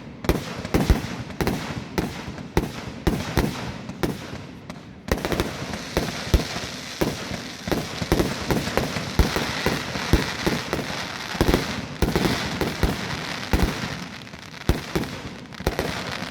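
Fireworks going off in a rapid, irregular string of sharp bangs, joined about five seconds in by a dense crackling hiss that runs on under the bangs.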